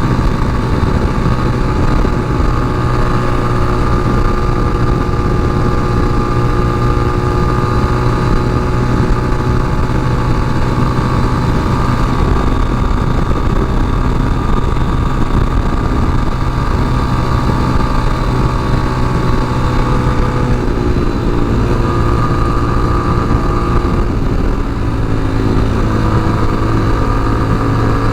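Tao Motor TBR7 dual-sport motorcycle's single-cylinder engine running steadily under way. Its note changes a little about two-thirds of the way through.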